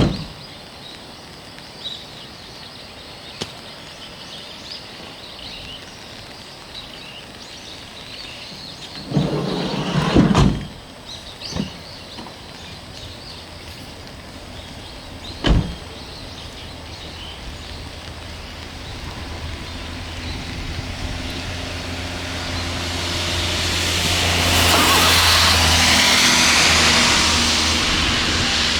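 A vehicle door thuds shut, then a vehicle engine starts with a sharp knock and runs with a steady low hum. Near the end a broad rushing noise swells up and fades.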